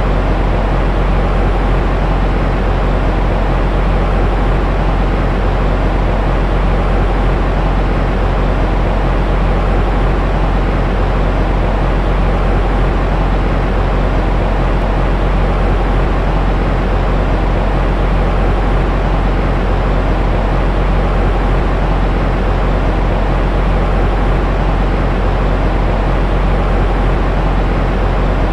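Continuous white noise played as a baby sleep aid: an unchanging, loud rushing hiss weighted toward the low end and soft in the highs.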